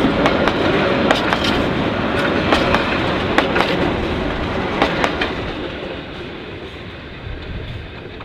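Passenger coaches of a metre-gauge steam train rolling past close by, a steady rumble with wheels clicking over the rail joints. The clicks stop about five seconds in as the last coach passes, and the rumble fades away.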